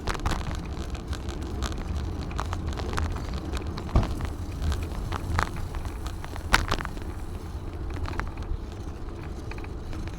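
Bicycle riding: steady wind rumble on the microphone with small clicks and rattles from the bike over the path. There are two sharper knocks, about four and six and a half seconds in, as it goes over bumps.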